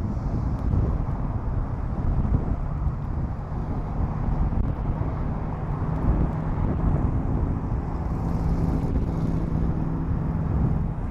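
Low, steady rumble of an F-35C's Pratt & Whitney F135 jet engine, with a faint steady hum coming in a few seconds in.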